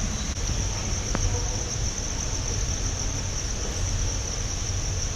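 Steady, high-pitched insect chirring that holds one pitch without a break, over a low, even hum, with a single faint click about a second in.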